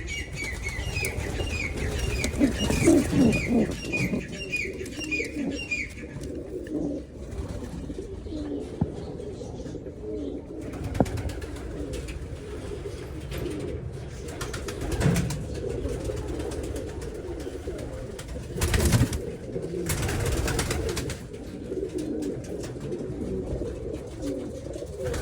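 Domestic Jogi pigeons cooing repeatedly in low, rolling phrases. A fast series of high chirps from a small bird runs through the first six seconds, and a few brief noisy bursts come later.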